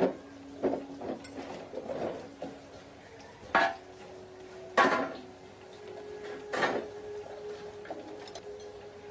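Several separate knocks and clatters of objects being handled, the loudest three in the middle of the stretch, over a faint steady hum.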